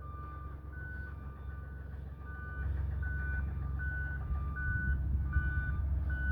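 Backup alarm beeping steadily over the low diesel rumble of a bulldozer at work. The beeps come at two alternating pitches, and the engine grows louder about two and a half seconds in.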